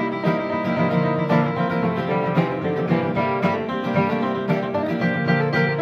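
Live acoustic country-style band music: plucked string instruments pick an instrumental passage between sung lines, with no voice.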